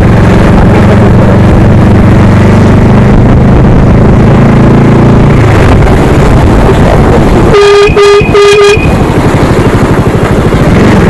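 Motorcycle engine running under wind and road noise, easing off about halfway through, then a vehicle horn giving three short toots in quick succession.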